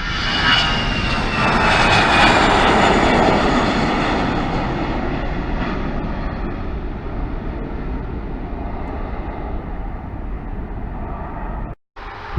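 Airliner passing close by: a high engine whine falling in pitch over the first two seconds as the engine noise peaks, then the noise slowly fading as it moves away. The sound cuts out briefly just before the end.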